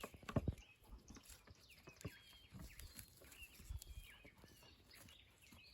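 Faint scattered thumps and knocks, the loudest in the first half-second, with faint short bird chirps.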